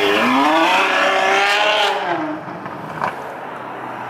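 Onyx F2X Ferrari F12's 6.3-litre V12 accelerating away, its note climbing in the first half-second as it revs, then falling and fading after about two seconds as the car pulls off. A single sharp pop about three seconds in.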